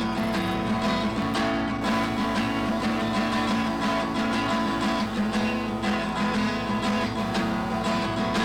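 Guitar music, with plucked notes played in a continuous run.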